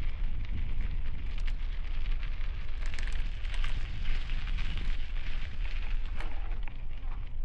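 Bicycle tyres crunching and crackling over gravel while riding, with wind buffeting the helmet-mounted microphone as a gusting low rumble.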